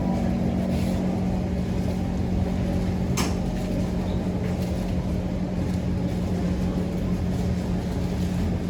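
Steady hum of a Kawasaki C151 MRT train's onboard equipment and air-conditioning while the train stands at a platform, with one sharp click about three seconds in.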